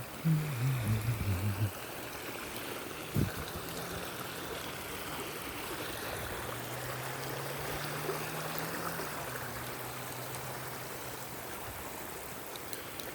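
Rainwater runoff flowing over desert ground, a steady rushing of water. A short louder low sound breaks in about half a second in, and a faint steady low hum runs under the water through the middle.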